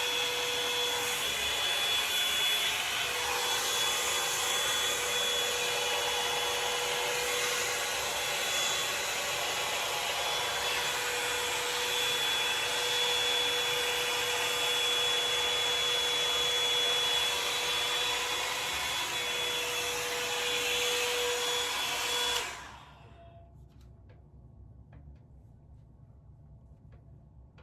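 Revlon One-Step hot-air brush blowing steadily with a faint whine, switched off and cutting out suddenly near the end.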